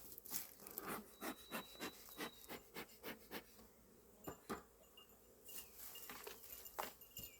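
Gloves being pulled on and worked over the hands: a rapid run of short rubbing, rustling strokes, then a few scattered ones.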